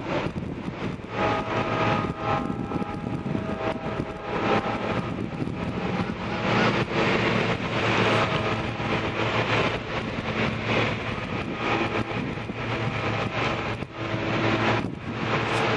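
Freight train's steel wheels rolling and clattering on the rails as the last cars pull away, with a few seconds of high steady tones about a second in.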